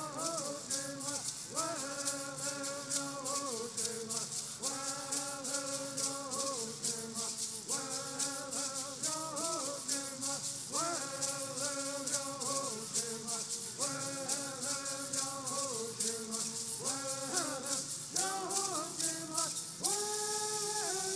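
Bird songs: a group of singers chanting in unison in phrases a few seconds long, over gourd rattles shaken in a steady quick beat.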